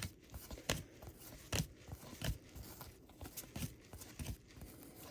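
Paper trading cards being flipped through by hand, card sliding and snapping off card: about seven short, sharp clicks at uneven intervals.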